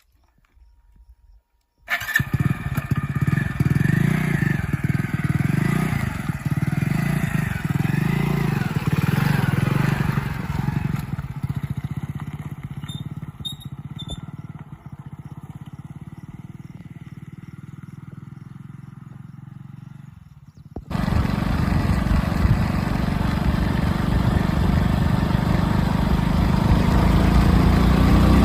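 Heavy diesel engine of earthmoving machinery running, coming in about two seconds in, with a low pulsing rumble that eases off and then cuts abruptly, about three-quarters of the way through, to a louder, steadier engine sound.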